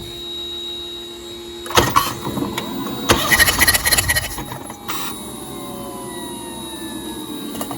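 BMW B48 four-cylinder engine turned over on its starter with the spark plugs out and injectors disconnected, so it spins without firing during a compression test. The cranking starts with a click about two seconds in and runs loudest for a couple of seconds. It is followed by a faint whine that slowly falls in pitch.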